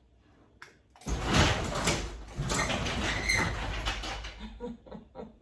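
Electric garage door opener running after the button is pressed, with the door rattling and grinding as it lifts only a little. The door's lift cables had slipped off their drums, and the owner wonders if the spring is also at fault. The sound starts about a second in and fades near the end.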